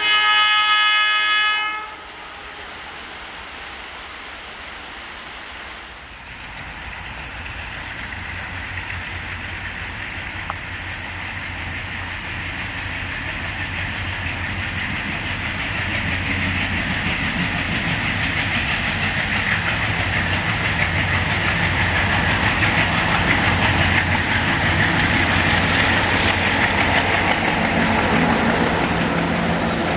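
A locomotive horn sounds a chord that cuts off about two seconds in. Then a train's rumble and rail noise build steadily louder as it approaches.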